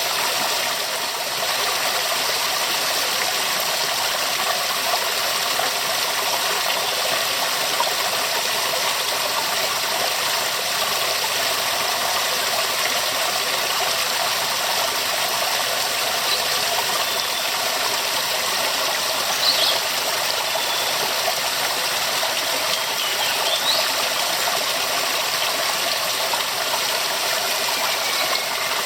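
Waterfall: a steady, dense rush of falling water, unchanging throughout.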